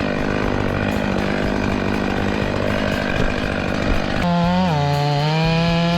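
Stihl MS500i fuel-injected two-stroke chainsaw running at steady high revs. About four seconds in, its note turns cleaner and dips slightly in pitch, then holds steady.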